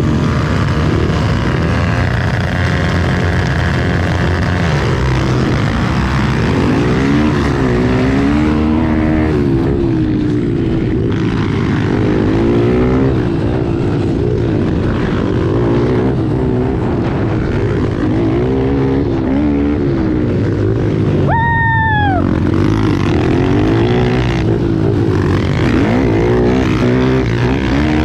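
Pit bike engines running in a dirt-track race, revving up and down over and over. About three-quarters of the way through there is a brief high whine that falls in pitch.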